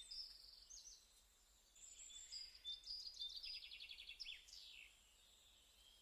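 Faint birdsong: small birds chirping in short high notes, with a fast trill about three seconds in and a few quick falling notes after it.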